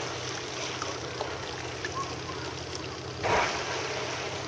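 Water lapping and trickling around a kayak hull, with one short, loud whoosh about three seconds in.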